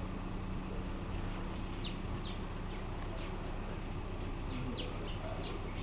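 Small birds chirping: short, quick, high chirps that fall in pitch, coming irregularly a few times a second, over a steady low background noise.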